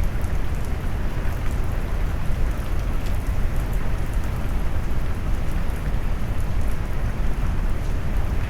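Steady rain noise mixed with deep brown noise: a dense low rumble under an even wash of rain, with faint scattered drop ticks on top.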